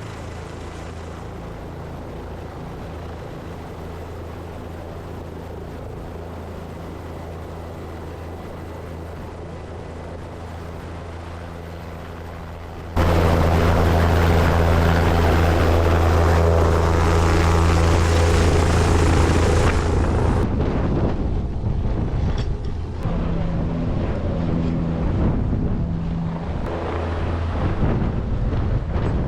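Helicopter running in flight: a steady low drone of rotor and turbine. About thirteen seconds in it jumps suddenly much louder, with added rushing noise.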